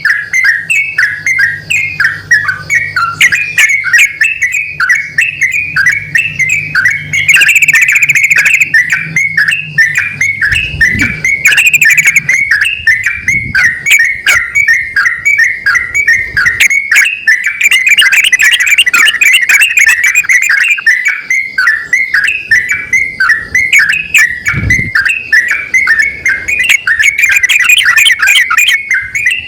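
Yellow-vented bulbuls, a male and a female, calling back and forth in a dense, unbroken run of quick chattering notes.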